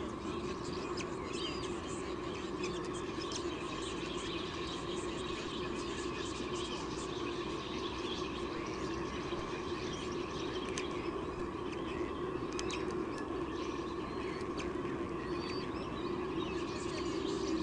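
Birds chirping, with short high calls scattered throughout, over a steady hum.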